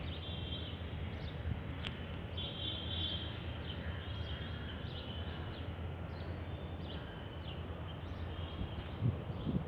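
Small birds chirping and trilling repeatedly, high-pitched, over a steady low outdoor rumble, with a few low thumps near the end.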